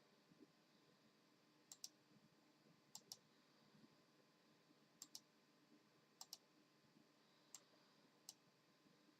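Sharp little clicks, mostly in quick pairs a fraction of a second apart, coming every second or so over a faint steady hum.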